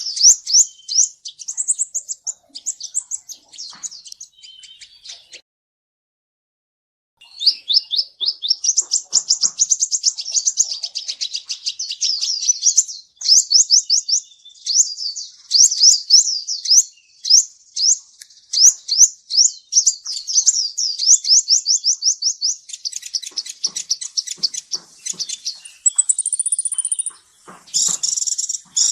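Kolibri ninja (sunbird) song: rapid, high-pitched twittering chirps that break off for a second or two about five seconds in, then resume as a long, fast run of chirps.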